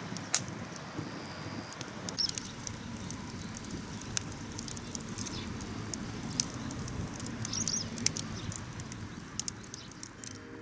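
Wood campfire crackling, with irregular sharp pops over a low steady rumble. A few short, faint bird chirps come through.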